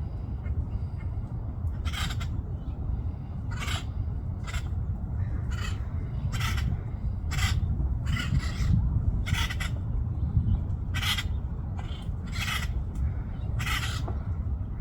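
Woodpecker making short, harsh, sharp sounds, about one a second at an uneven pace and sometimes in pairs, over a constant low rumble.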